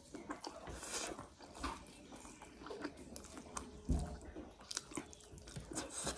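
Close-up chewing of a mouthful of spicy Korean instant ramen noodles: irregular wet smacking and clicking of the mouth, with one low thump about four seconds in.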